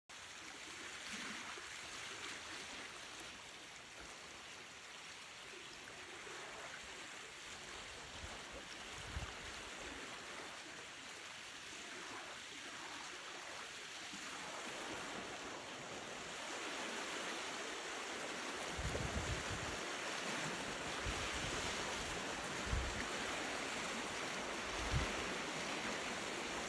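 Water washing on a shoreline: a steady hiss of small waves, growing a little louder in the second half, with occasional low rumbles of wind on the microphone from about two-thirds of the way through.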